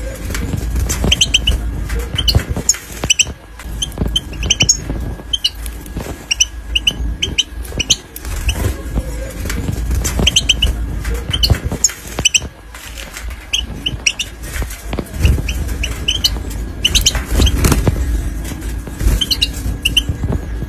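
Young European goldfinches calling with short, high chirps, often in quick pairs and clusters, over a low rumble and scattered knocks.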